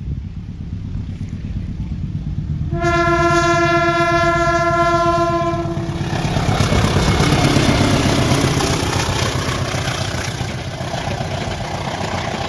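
Train rumbling past, with its horn sounding one steady blast of about three seconds starting about three seconds in, followed by the noise of the wheels on the rails.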